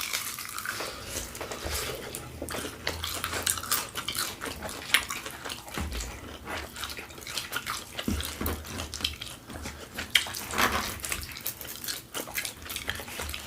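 Close-up chewing and wet mouth sounds of someone eating a sauced chicken wing: irregular smacks and small clicks.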